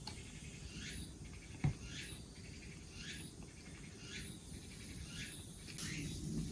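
High-pitched insect chirping, repeating about once a second, over a low background rumble, with one short soft knock nearly two seconds in.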